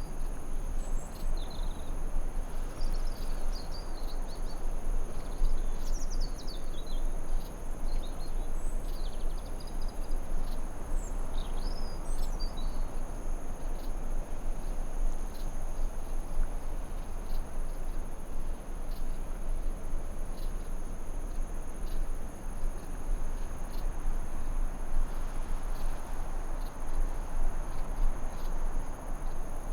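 Forest ambience: a steady, high-pitched insect drone over a soft, even rushing noise, with short bird chirps and warbles through the first half.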